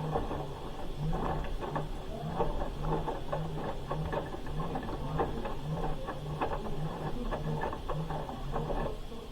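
Hoover H-Wash 300 Plus washing machine tumbling its drum in a rinse: a low motor hum pulsing a little over twice a second, with many small clicks and splashes from the wet load.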